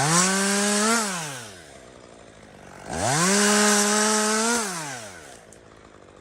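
Two-stroke chainsaw throttled up twice: each time the engine climbs quickly to a high, steady pitch, holds for one to two seconds, then falls back toward idle.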